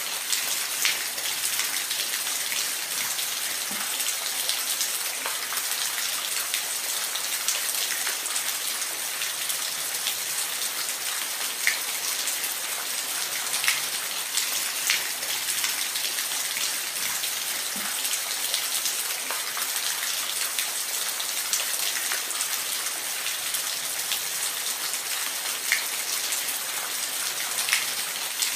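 Steady hiss of falling water from a waterfall, mostly high and bright with little low rumble, with scattered sharper splashes and drips.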